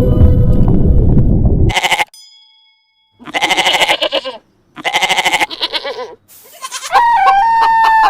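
A loud, low, noisy sound cuts off about two seconds in. After a short silence come two loud bleats from a sheep or goat. Near the end a rooster starts crowing.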